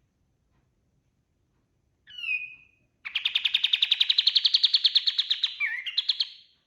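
A kapas tembak songbird singing: a short sweeping call about two seconds in, then a fast, even trill of rapid notes, about ten a second, rising slightly in pitch and ending with a few changed notes.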